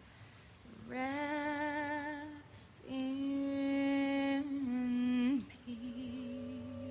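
A solo singing voice, barely accompanied, holds long, wavering notes in three phrases that open a song. A low, steady accompanying tone joins near the end.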